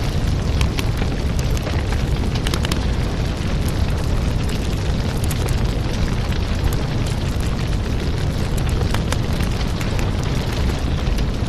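Crackling wood fire: a steady, heavy low hiss with sharp crackles and pops scattered throughout.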